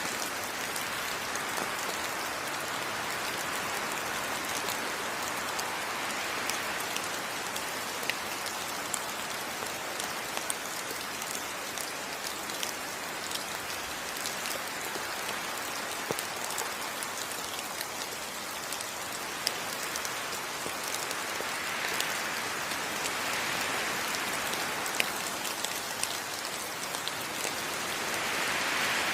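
Steady heavy rain falling on rainforest foliage, a dense even hiss with many individual drops ticking through it; it swells slightly a few times.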